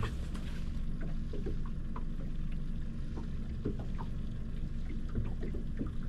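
Small boat's motor running steadily at low speed, with a few faint clicks.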